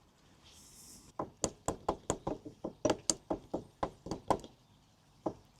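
A rapid run of light taps, about six a second, as exhaust gaskets are tapped home into the exhaust ports of a Honda CB250RS engine. A single tap follows near the end.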